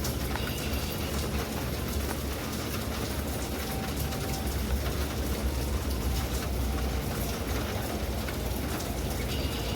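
Steady heavy rain falling in a storm, an even hiss with a constant deep rumble underneath.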